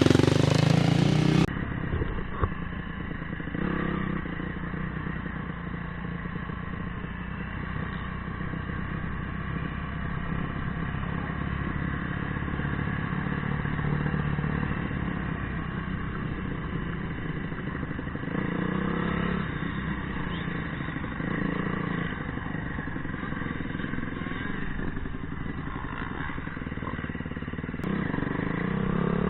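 Dirt bike engine running while riding, revs rising and falling, with louder stretches about two-thirds of the way in and near the end.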